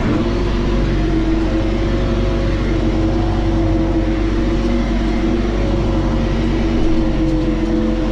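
John Deere tractor's engine running at a steady speed, with a thin steady whine over the engine note.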